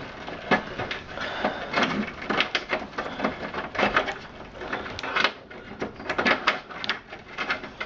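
PC power and data cables being pulled back through a computer case's cable-routing openings: irregular clicks, rustles and scrapes of cable and connectors against the case.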